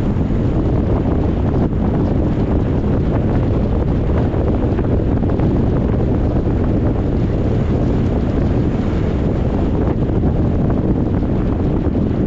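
Steady low rumbling wind noise buffeting the microphone, with no breaks or distinct events.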